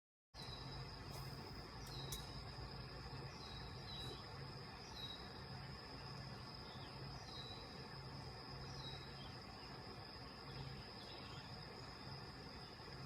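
Insects chirring in a steady high drone, with short falling chirps repeated about once a second, over a low outdoor background. It begins after a split second of silence.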